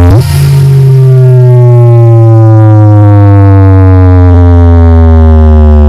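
Large sound system playing a very loud, distorted low tone with many overtones. It swoops up briefly at the start, then slides slowly and steadily down in pitch: a bass sweep played during a sound-system check.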